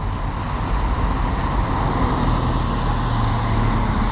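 A bus passing close by: a steady low engine hum over loud tyre and road noise, building as it comes near.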